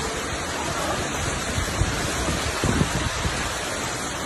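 Steady rushing noise of hurricane rain and wind, with a few low thumps in the middle.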